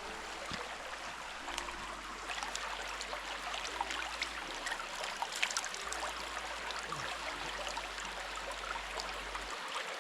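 Small mountain stream running steadily over rocks, with scattered small splashes and drips.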